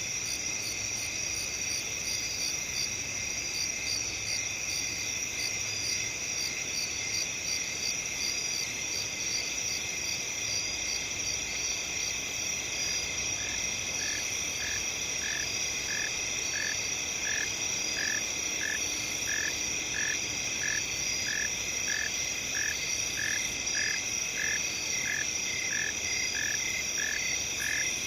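Night field ambience: a steady, high-pitched chorus of crickets trilling. About halfway through, a regular call joins in, repeating about twice a second.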